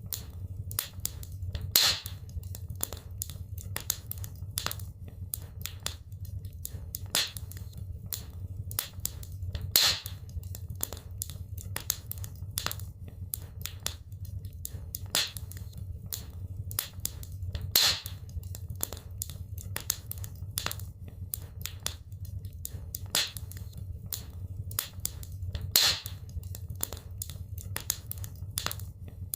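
Wood fire crackling in a fireplace: a dense run of small snaps and pops over a steady low rumble, with a louder pop about every eight seconds.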